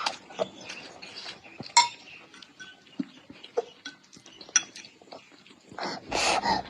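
A baby's short vocal noises mixed with small clinks of a spoon against a dish, with a louder vocal burst near the end.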